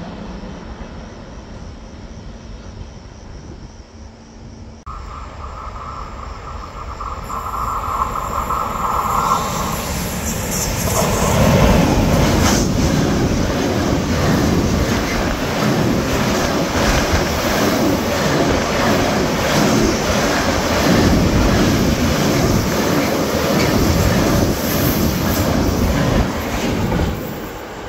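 Container freight train passing close through a station at speed: a rising rumble and rattle of wheels and wagons that builds from about five seconds in, is loud for most of the passage and drops away near the end. A steady high tone is heard for a few seconds as the train approaches.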